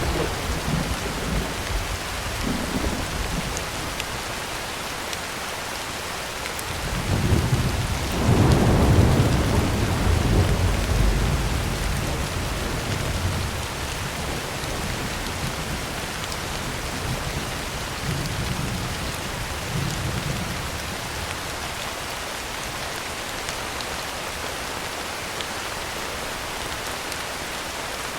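Heavy rain falling steadily on a tin roof, with thunder: a long low rumble builds about a quarter of the way in, peaks and fades over several seconds, and softer rumbles come near the start and around two-thirds through.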